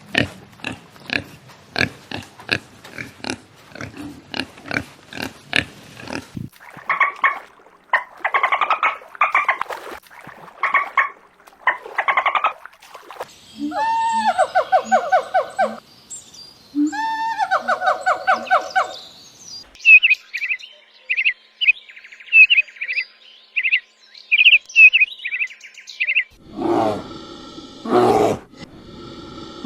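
A run of different animal calls, one kind after another. First come quick repeated clicks for about six seconds, then short pitched calls repeated over and over, then longer calls that rise and hold. Rapid high chirps follow, and a deeper call comes near the end.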